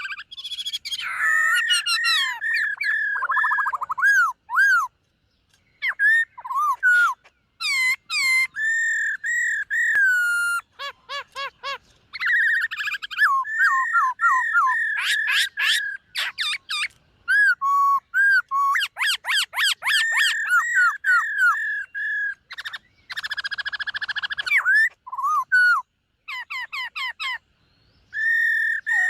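Black-throated laughingthrush singing a long, varied song of loud whistled phrases, with rising and falling slurred notes and quick repeated notes, broken by short pauses.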